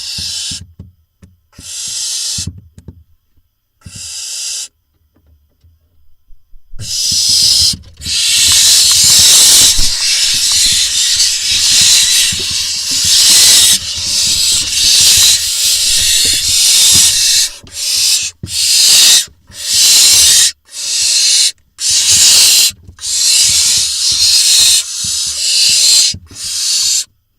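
Barn owl nestlings hissing, a run of harsh, breathy hisses about a second each: a few spaced apart at first, then almost without a break from about seven seconds in. This is the chicks' food-begging call while a parent is at the box with prey.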